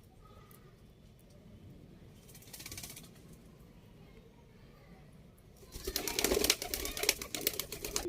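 Pigeon's wings flapping in flurries: a short burst about two and a half seconds in, then a longer, louder bout of rapid wing beats from about six seconds in.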